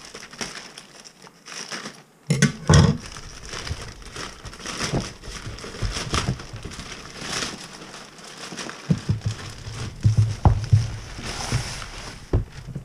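A parcel being opened by hand: packaging rustling and crinkling in irregular bursts, with a few sharp clicks.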